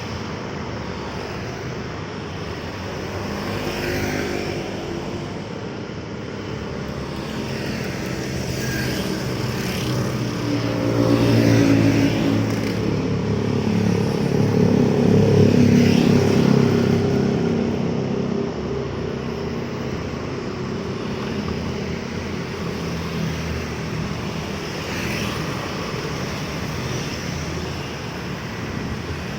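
Road traffic: a steady hum of vehicles with engine notes that rise to two louder pass-bys about eleven and fifteen seconds in, then fade back.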